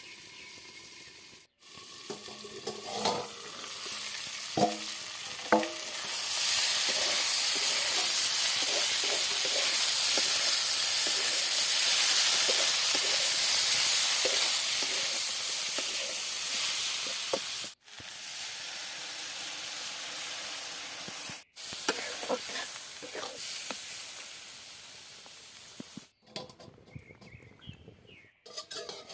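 Food sizzling and frying in hot oil in a pan, stirred with a spatula that clicks and scrapes against the pan. The sizzle turns much louder about six seconds in, and the sound breaks off suddenly several times.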